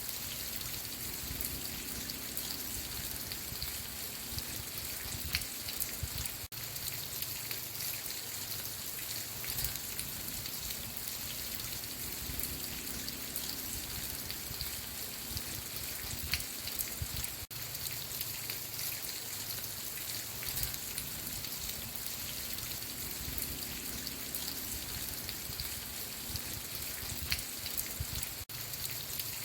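Steady rain, with many drops pattering on a surface, and a brief dropout about every eleven seconds.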